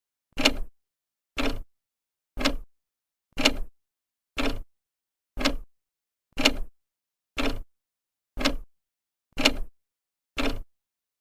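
Old clock's second hand ticking evenly, one sharp tick a second, with silence between ticks.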